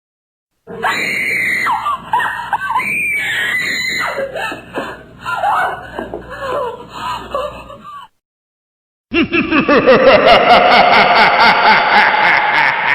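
Scary sound effect of several voices screaming and shrieking, lasting about seven seconds and cutting off. After a second of silence a different, rough, pulsing effect starts.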